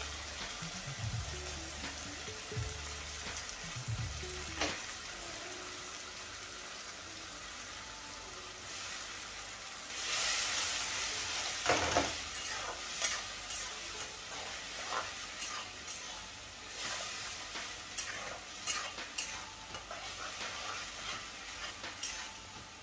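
Chopped vegetables for pav bhaji frying in oil in a pan: a steady sizzle while a spatula stirs, with a louder surge of sizzling about ten seconds in and sharp clicks of the spatula against the pan through the second half.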